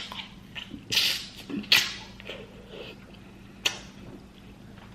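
Close-miked eating sounds from a mukbang of seafood boil: wet chewing and lip smacks, a few sharp clicks and smacks scattered through.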